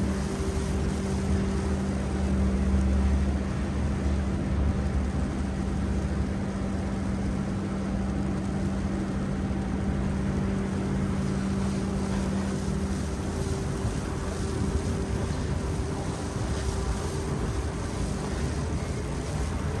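Steady low rumble of vehicle engines in street traffic, with a steady hum that fades out about two-thirds of the way through, over a rushing noise like wind on the microphone.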